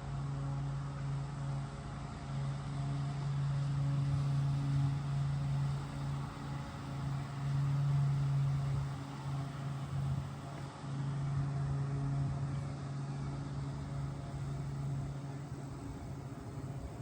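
Diesel locomotive engines running with a steady low drone.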